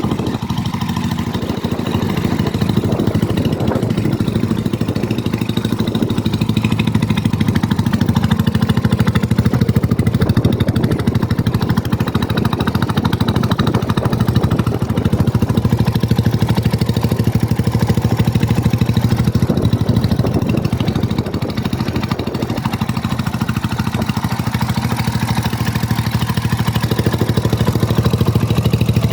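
Mutt Akita 250 motorcycle's single-cylinder engine idling steadily.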